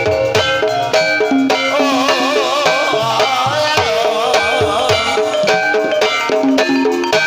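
Javanese gamelan music accompanying an ebeg horse dance: hand drums beat a steady rhythm under ringing metallophone notes, and a wavering melody line comes in over them from about two seconds in to about five seconds in.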